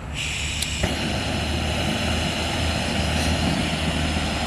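Steady mechanical drone with a low hum and a thin high whine, stepping up in level just under a second in.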